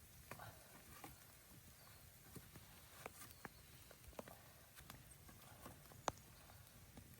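Faint, irregular clicks and light knocks, about a dozen scattered through, over a quiet hiss.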